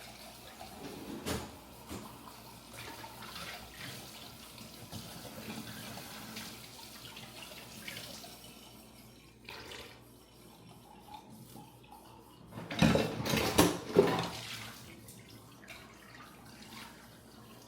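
Kitchen tap running into a sink while dishes are washed. The water goes quiet about halfway, then dishes clatter loudly against each other for about a second and a half, about two-thirds of the way through.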